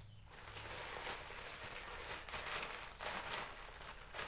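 Crinkling and rustling of packaging being handled and opened, with a few small knocks along the way.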